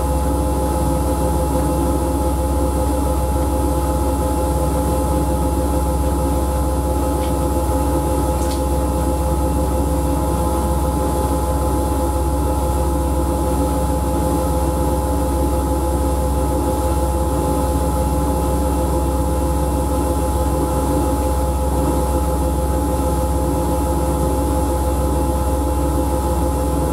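Siemens Siwamat washing machine running, a steady hum with a constant whine held at an even level.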